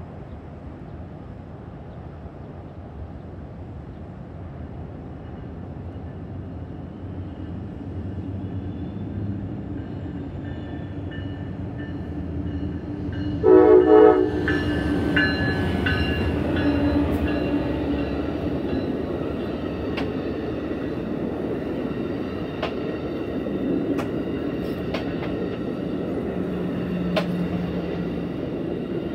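Passenger train approaching and passing over a grade crossing: its rumble builds steadily, one short horn blast sounds about halfway through as the loudest sound, then the cars roll past with sharp wheel clicks over the rail joints.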